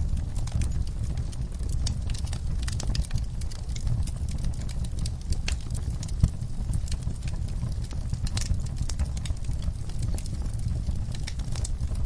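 Wood fire in a fireplace crackling, with a steady low rumble of flames and frequent irregular sharp pops and snaps.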